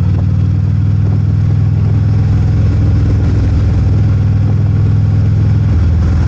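Harley-Davidson motorcycle's V-twin engine running steadily at low speed in traffic, with a slight change in its note near the end.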